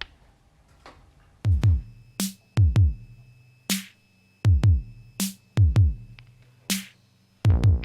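Electronic drum-machine beat opening a song: deep kick drums that drop in pitch, often in pairs, with a sharp hit about every second and a half. Near the end a fuller pitched synth sound comes in.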